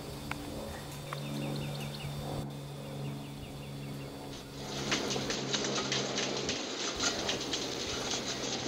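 A small bird calls twice in quick runs of short high chirps over a steady low hum. About four and a half seconds in, this gives way to a louder rushing noise full of irregular clicks and rattles from a bicycle-wheel windmill sculpture turning in the wind.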